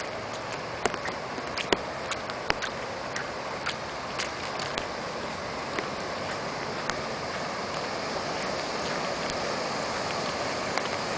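Steady hiss of heavy rain and running floodwater, with irregular sharp ticks of drops striking close by, slightly louder near the end.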